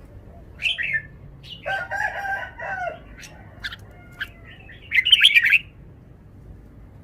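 Red-whiskered bulbul singing short, bright phrases, the loudest about five seconds in. A lower, longer call runs for about a second around two seconds in.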